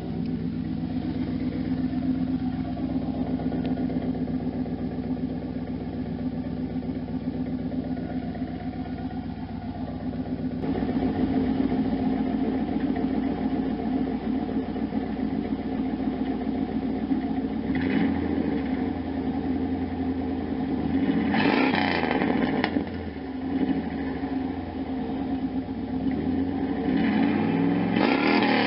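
1992 Camaro Z28's stock L98 350 V8 idling through a Flowmaster Super 10 muffler slid on loosely for a test, then revved in three short blips in the last third.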